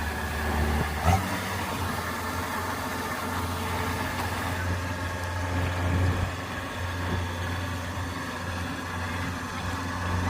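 Kubota DC-105X combine harvester's diesel engine running steadily, with one sharp knock about a second in.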